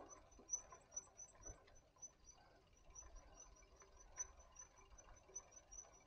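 Faint birdsong in woodland: one high chirp repeated evenly several times a second, over the soft rolling noise and small ticks of a bicycle on a dirt path.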